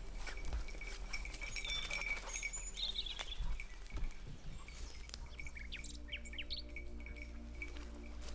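Small bird giving a quick series of short, high chirps about two-thirds of the way through, over scattered clicks and a steady low rumble.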